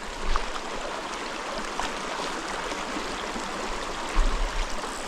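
Mountain stream water running steadily, an even rushing noise, with a brief low bump about four seconds in.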